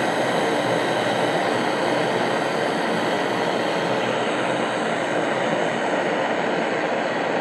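Steady hiss of an LPG-can blowtorch flame, heating a brazed AC pipe joint to melt it loose.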